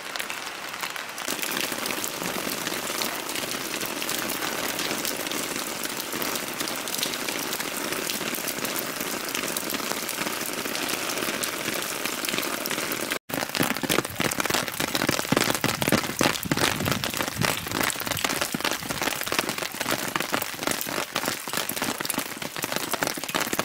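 Steady rain falling. About halfway through the sound cuts out for a moment and comes back louder and more crackly, with many separate drops splashing, as rain pelts a pond's surface.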